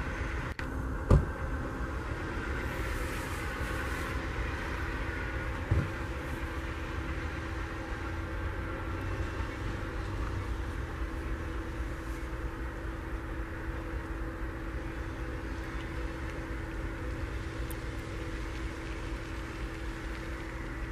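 Amtrak Vermonter passenger train rolling away, a steady low rumble with a faint hum, with two short thumps about a second in and near six seconds in.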